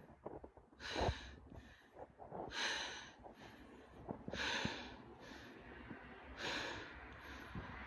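A man breathing heavily and audibly close to the microphone: hissing breaths come about every two seconds, five in all.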